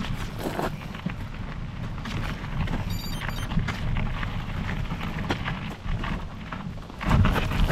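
Specialized Epic Pro mountain bike being ridden on a rough trail: steady wind rumble on the microphone with tyre noise and irregular knocks and rattles from the bike, which get louder near the end.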